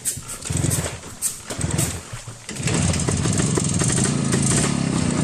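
Motorcycle engine being cranked in a few short bursts, then catching about two and a half seconds in and running steadily at idle, quietly.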